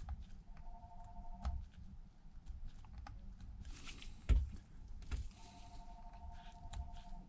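Small clicks and taps of precision tools on a workbench as a protective plastic film is peeled off a phone-sized flex cable, with two short rustling peels and one louder knock about four seconds in.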